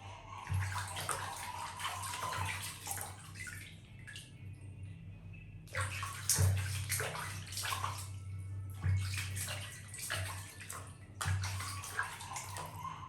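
Water splashing and sloshing in irregular bursts, with a quieter stretch about four seconds in, over a steady low hum.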